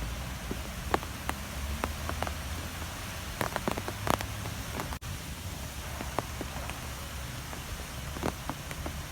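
Strong wind blowing as a steady low rumble and hiss, with irregular sharp ticks and taps scattered through it and clustering about halfway through. The sound drops out for a split second about five seconds in.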